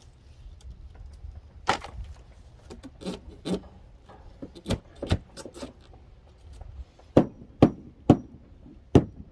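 Hand-tool blows knocking into old, rotten framing wood. There are scattered sharp knocks at first, then four hard strikes about half a second apart near the end.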